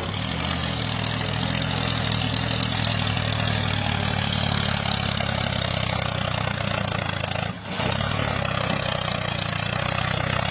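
A truck engine running steadily with a low, even drone, briefly dipping about seven and a half seconds in.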